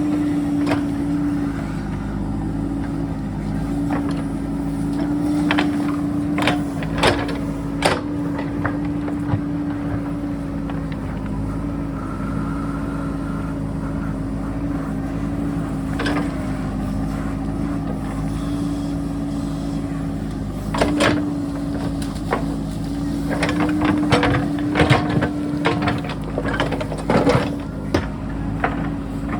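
JCB backhoe's diesel engine running steadily under load, with sharp knocks and clanks of the bucket working against rock. The knocks come a few at a time early on and grow frequent in the last third.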